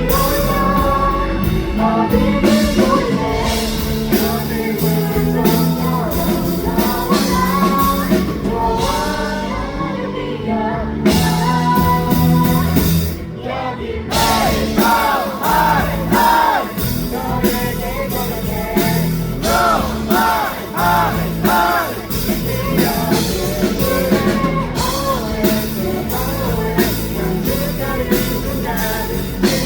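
A rock band playing a song live, with a woman singing lead over drums, bass and electric guitar.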